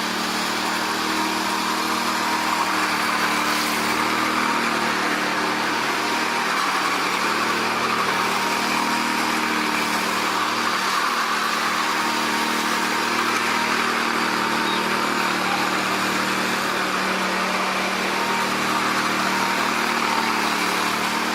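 Engine of a construction machine running steadily at a constant speed, with a wide mechanical hiss over it.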